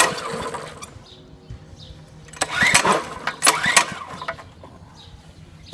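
A mini-bike's small engine being pull-started: the recoil starter whirs as the engine turns over without catching, once at the start and twice more in quick succession about halfway through. It will not fire after years of sitting, which the owner puts down to the carburetor.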